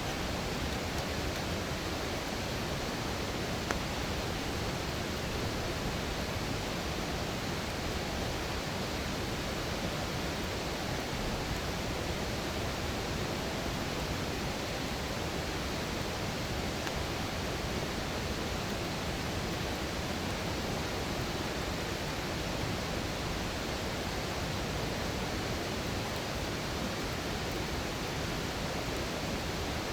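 Steady rush of flowing water, even and unbroken, with a single faint crack about four seconds in.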